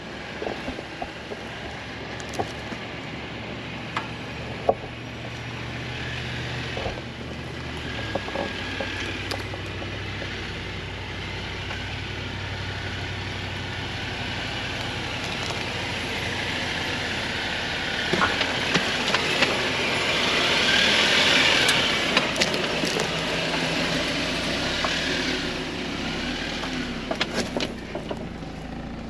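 Jeep engine running at low speed on an off-road trail, with a steady low hum, scattered knocks and crunches, and a swell of rushing noise about twenty seconds in.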